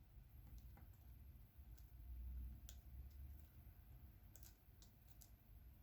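Faint, irregular light clicks and taps of diamond painting work: a drill pen picking up small resin drills and pressing them onto the adhesive canvas. A low rumble of handling noise swells about two seconds in.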